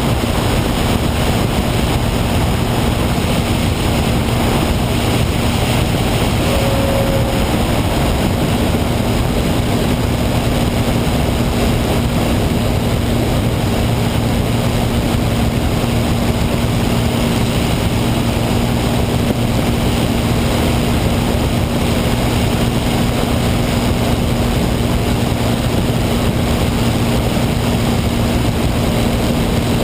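Steady, unchanging drone of a P-51 Mustang's piston engine and propeller with a rush of air noise, holding constant power throughout.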